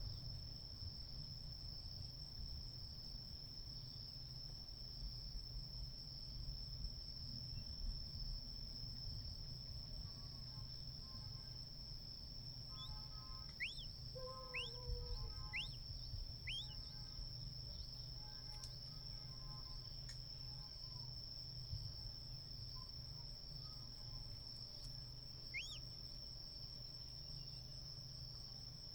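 A steady high-pitched insect trill runs throughout over a low rumble. About halfway through, birds give four short whistled calls that each fall in pitch, and one more comes near the end.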